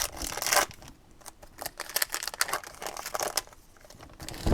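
Foil wrapper of a Donruss Optic basketball card pack crinkling as it is torn open, with irregular small crackles and clicks of the cards being handled, and a louder knock near the end.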